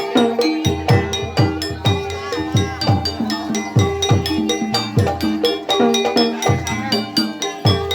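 Ebeg Banyumasan music: a traditional Javanese percussion ensemble playing a fast, steady rhythm of struck tuned bars over hand-drum strokes that drop in pitch. A brief wavering high melodic line is heard about two seconds in.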